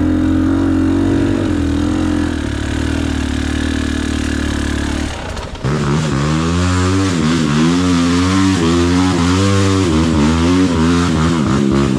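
Two-stroke KTM EXC 300 enduro motorcycle engine held at a steady rev for about five seconds. After a short dip it is revved up and down over and over, about twice a second, as the throttle is worked.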